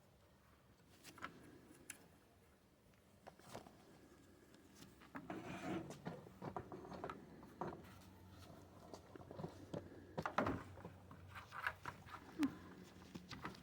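Irregular light scraping, clicking and rustling as a screwdriver and paper towels work softened paint stripper off a pedal-car handle. The handling comes in short bursts, busiest near the middle and again about ten seconds in.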